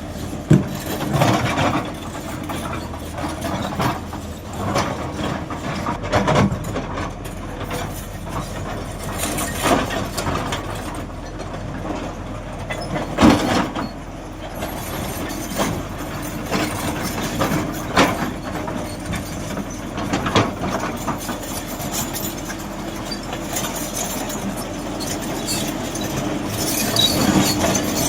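Hydraulic excavator's diesel engine running steadily, with irregular sharp knocks and clanks as the machine works.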